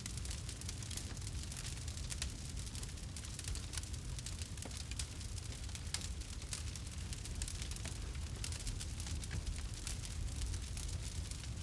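Campfire crackling: frequent small, sharp pops and snaps at irregular intervals over a steady low rumble.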